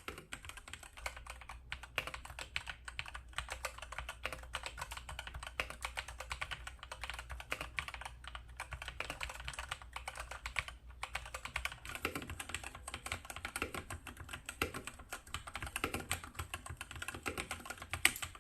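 Fast, continuous typing on an LT84 wireless mechanical keyboard, its keys clicking rapidly. From about two-thirds of the way in, deeper knocks join the clicks every half second or so.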